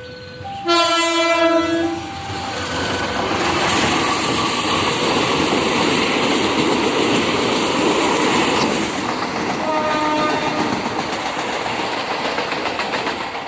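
Diesel locomotive of the Probowangi passenger train sounding its horn once, for about a second, then the train passing over the level crossing: a loud rolling rumble with the clickety-clack of wheels over rail joints. It eases after about nine seconds, when the crossing's two-tone warning bell comes through again.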